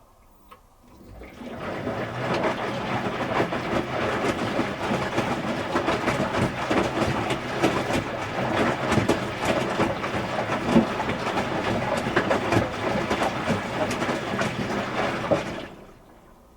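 Electrolux Wascator W355H commercial washing machine in its wash action, the drum turning and tumbling the wet load with water sloshing and clattering. It starts about a second in and stops abruptly near the end, as the drum pauses between turns.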